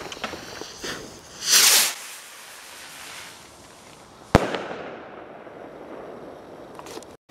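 Firework rocket taking off with a short, loud whoosh, then bursting about three seconds later in a single sharp bang that echoes away.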